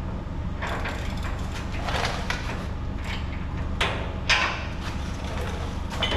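Metal-on-metal clanks and scrapes from hand tools and sheet-metal truck parts being handled and bolted up, a handful of short strokes, the loudest a bit past the middle, over a steady low hum.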